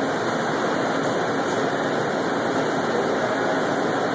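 Dimension FDM 3D printer running mid-print, laying down ABS: a steady mechanical noise from its fans and moving print head, with no change in level.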